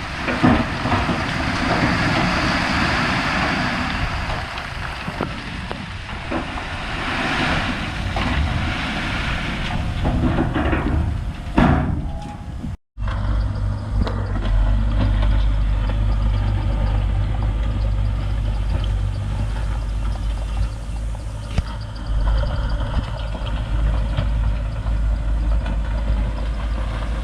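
Heavy diesel earthmoving machinery at work: a noisy stretch with knocks and scraping, then, after a sudden cut about halfway, a steady low diesel engine running.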